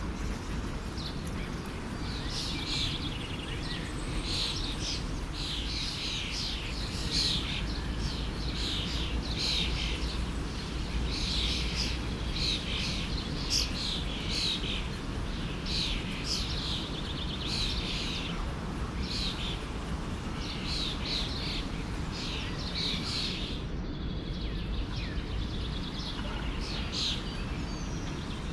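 Many small birds chirping and singing in quick, overlapping calls over the steady rush of a forest stream.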